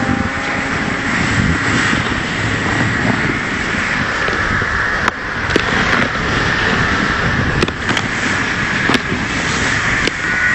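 Dog sled runners sliding and scraping over snow as the team pulls the sled, a steady hiss with a few sharp clicks in the second half. The sled is running heavily in a tight track on a leaning runner.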